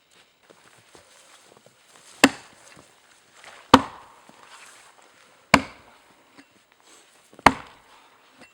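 An axe chopping wood: four separate strokes, each a sharp crack with a short ring, spaced about a second and a half to two seconds apart.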